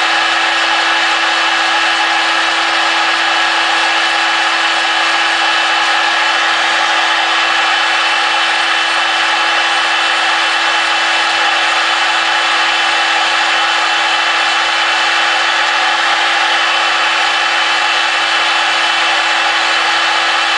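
High-speed rotary grinder with a green grinding stone running continuously at a steady pitch, grinding the rough casting out of a Predator 212 cylinder head's ports.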